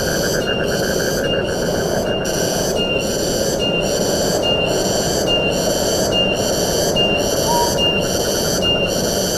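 Wind rushing through forest trees, with a shrill insect chorus pulsing steadily at nearly two beats a second.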